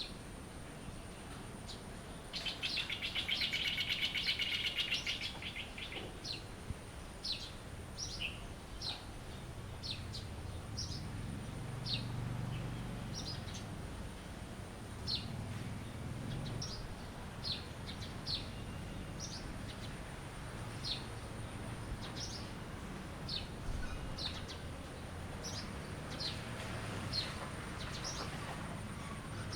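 Songbirds chirping: short, high chirps repeated roughly once a second, with a dense buzzing trill for about three seconds near the start.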